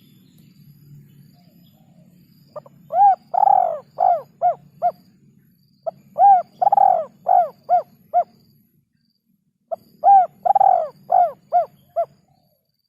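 Male spotted dove cooing, three phrases about three seconds apart. Each phrase is a short note, then a longer drawn-out coo, then several quicker, shorter coos. A faint low hum runs under the calls.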